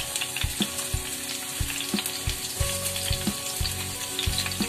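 Pointed gourd and potato chunks shallow-frying in hot oil in a frying pan: a steady sizzle with small crackles and pops, over a soft low thump repeating about three times a second.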